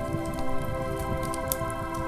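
Slow ambient meditation music of long held tones, over a wood fire crackling with a few sharp pops.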